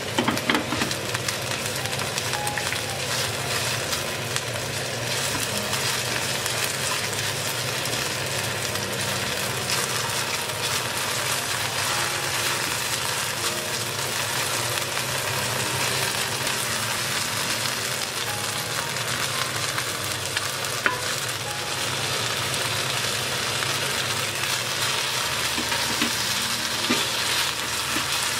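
Sliced green onion sizzling steadily in hot chili oil in a pan while being stirred with a silicone spatula, with a few knocks of the spatula against the pan at the start.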